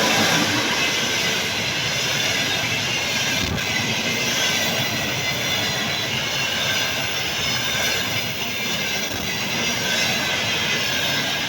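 A train passing on the line: a steady, loud rush of wheels running on the rails.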